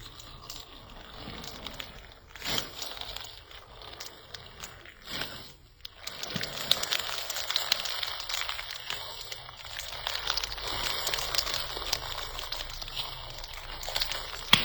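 Slime being worked by hand: a couple of separate squishes, then, about six seconds in, a continuous run of dense, fine crackling and popping.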